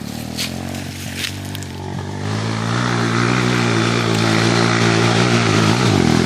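Dirt bike engine running at a steady pace, growing louder about two seconds in, with a short dip in pitch near the end. A couple of light clicks come in the first second or so.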